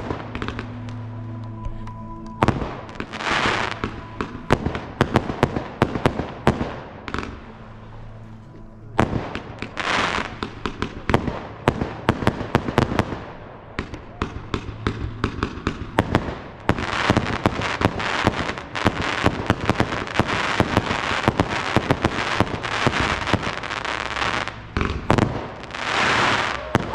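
Fireworks display: a rapid, uneven string of bangs from shells launching and bursting. Swells of dense crackling hiss come about three seconds in, around ten seconds, and again near the end.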